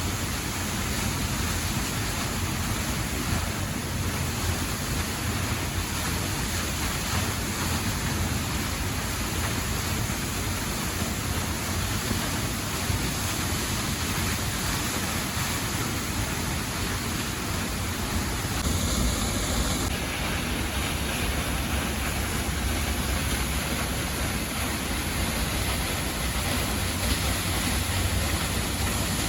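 Steady rush of a 32-metre waterfall plunging into a rocky gorge, heard close up as an even wall of water noise.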